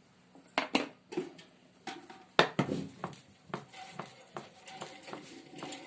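Irregular clicks and clatter of small hard objects being handled on a work surface, the loudest knock about two and a half seconds in.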